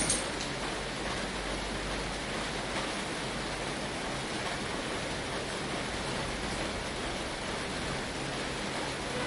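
Steady rain falling on a tin roof, an even hiss, with a few sharp taps of drops right at the start.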